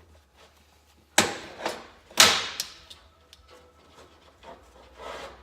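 Tools and engine parts being handled on a workbench: two loud knocks about a second apart, each with a lighter knock after it, then a few quieter knocks near the end.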